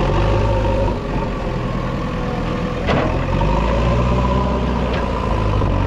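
Heavy diesel engine running steadily, with a steady whine above the engine note. A single sharp knock comes about three seconds in.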